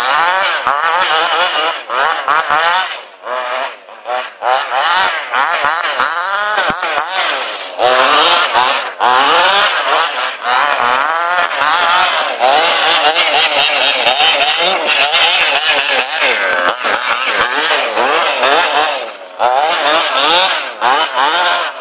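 Tuned 23cc two-stroke petrol engine of a radio-controlled car revving up and down over and over, its pitch sweeping quickly with each blip of throttle, with a couple of brief drops in level about three and nineteen seconds in.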